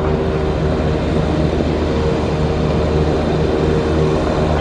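Steady low engine hum of cars moving slowly in road traffic, with no sudden changes.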